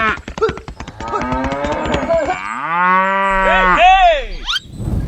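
A cow mooing, with one long drawn-out moo through the middle and a short rising call near the end, over rapid clicking in the first half.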